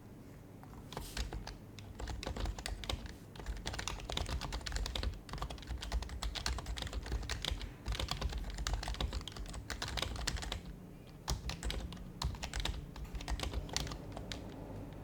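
Fast, continuous typing on an HHKB Professional HYBRID Type-S keyboard with silenced Topre electrostatic capacitive switches. The typing starts about a second in, pauses briefly a little past the middle, then picks up again.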